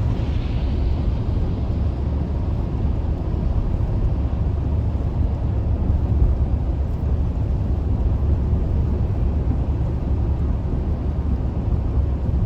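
Steady low road and engine rumble inside a moving car's cabin, with a faint hiss at the start that fades over about two seconds.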